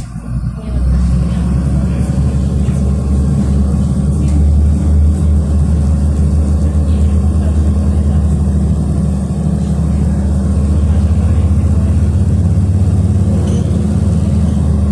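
City bus diesel engine heard from inside the passenger cabin. It picks up about a second in, as the bus pulls away, then runs under way with a steady low rumble.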